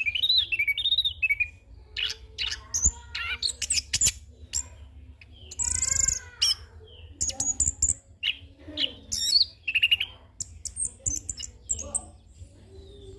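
Chestnut-capped thrush singing a continuous, varied song: quick strings of whistled notes, chirps and rapid trills with mimicked calls worked in, and a short harsh rasp about six seconds in. A low steady hum sits underneath.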